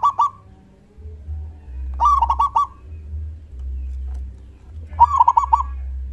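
Zebra dove (perkutut) song: a short cooing phrase of one rising note and a few quick notes, repeated about every three seconds, twice in full after the tail of one at the start. A steady low rumble runs beneath.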